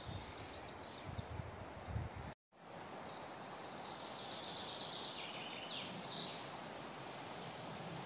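A songbird singing one fast, high trill that drops in pitch and ends with a short flourish, about halfway in. Before it come low muffled thumps, then the sound cuts out completely for a moment at an edit.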